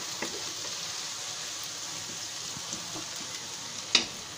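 Chopped onions and whole spices sizzling steadily in hot oil in a pan, stirred with a wooden spoon, with a few light clicks and one sharp knock of the spoon against the pan about four seconds in.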